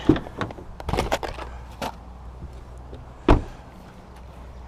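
Fishing tackle being handled while rigging up: a few scattered knocks and clicks, the loudest about three seconds in.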